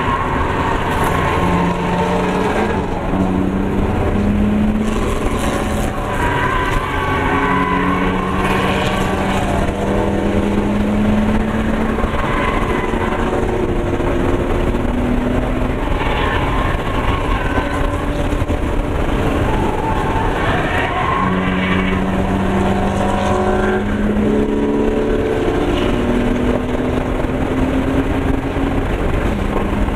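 Interior sound of a 2001 BMW 325i's straight-six engine being driven hard on a racetrack, its note holding steady for stretches and then stepping up or down, over loud road and wind noise.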